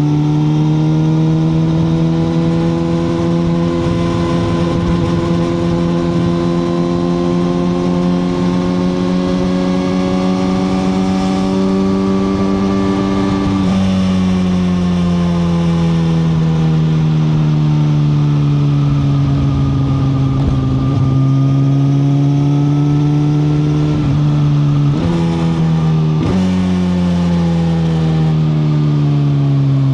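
2021 Suzuki GSX-R1000R's inline-four engine pulling on the road, its revs climbing slowly, then falling away around the middle as the throttle comes off, picking up again. Near the end there are two quick jumps in revs, after which the engine note falls steadily, with wind rush underneath.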